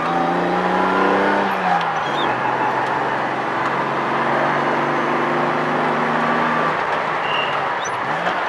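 1978 Datsun 280Z's straight-six engine pulling the car uphill, heard from inside the cabin. The engine note drops about two seconds in as the revs fall, holds steady, then climbs again near the end.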